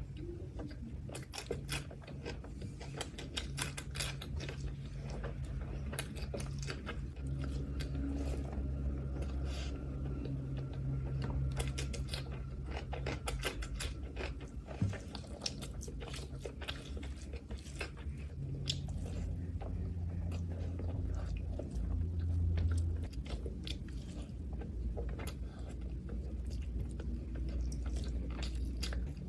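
Close-up chewing and wet mouth sounds of someone eating mutton liver curry with rice, with many quick smacks and clicks, over a steady low hum.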